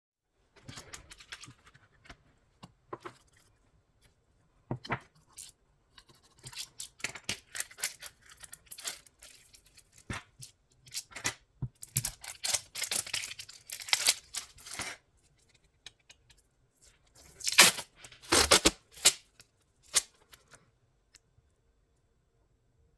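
Adhesive tape being pulled off the roll and torn, in irregular bursts of ripping and rustling with scattered handling clicks; the longest and loudest pulls come about two-thirds of the way through.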